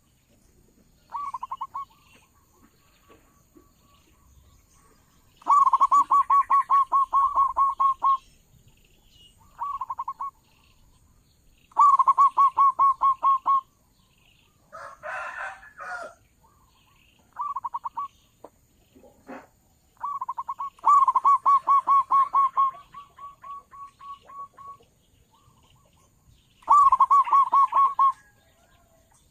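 Zebra dove (local perkutut) cooing: long runs of rapid, evenly pulsed notes repeated every few seconds, with shorter phrases between them. A brief rough, noisy sound cuts in around the middle.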